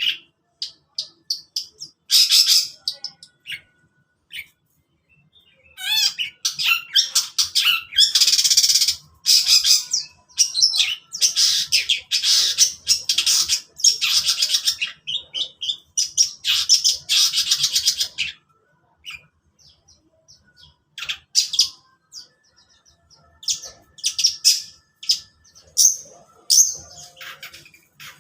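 Long-tailed shrike (cendet) singing in bursts of harsh, scratchy chattering phrases separated by short pauses, with brief lulls around the fourth second and again near twenty seconds.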